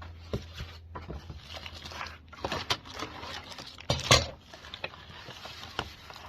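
Packaging being handled during unboxing: foam packing and plastic rustling, scraping and knocking in irregular bursts. The loudest is a scrape about four seconds in.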